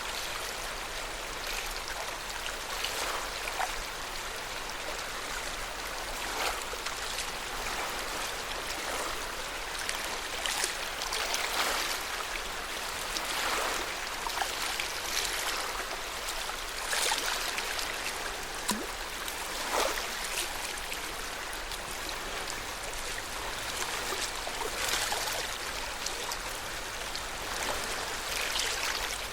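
Lake water lapping at the shore: a steady wash of small waves with frequent little splashes.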